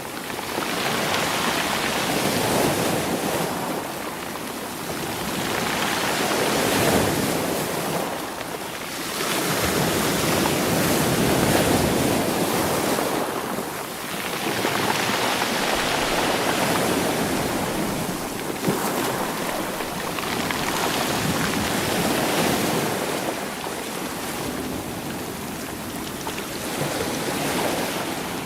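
Sea waves washing over rocks and rolling stones, swelling and easing back in a slow rhythm about every five seconds.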